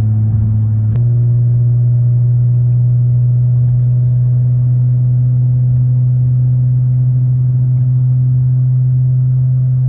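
Steady low drone of a car's engine and exhaust heard from inside the cabin while cruising. About a second in there is a click, and the drone steps up slightly and then holds steady.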